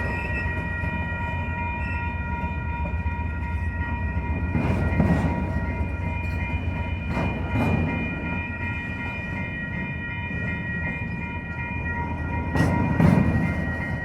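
Norfolk Southern freight train cars rolling past with a steady low rumble. Wheels knock over rail joints in pairs every few seconds. Several steady high-pitched ringing tones sound throughout.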